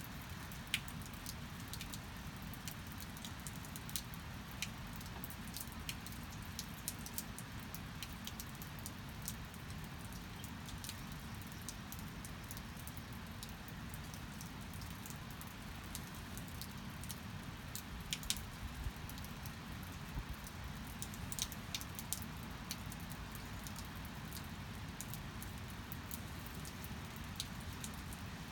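Steady rain falling, an even hiss with scattered drops tapping sharply, a few louder taps about two-thirds of the way through.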